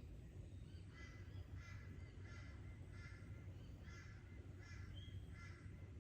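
Crow cawing in a steady run of about eight calls, roughly one and a half a second, over a faint low background rumble.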